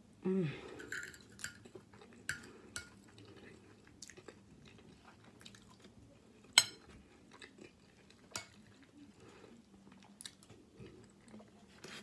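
Close-miked chewing and mouth sounds of someone eating a soft rice, bean and chicken filling, with a metal fork clicking against a ceramic plate now and then; one sharper clink about halfway through.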